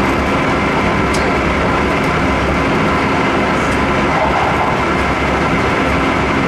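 Keisei 3700-series electric train running at speed, heard inside the passenger car: a steady rumble of wheels and running gear with a few faint steady tones over it, and one faint tick about a second in.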